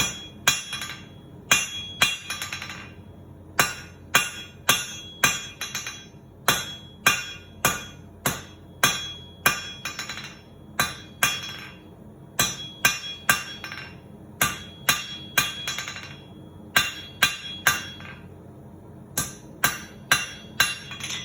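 Hand hammer striking hot steel stock on an anvil, about two blows a second, each with a short metallic ring, in runs broken by brief pauses; the smith is drawing out 1/2 inch square steel.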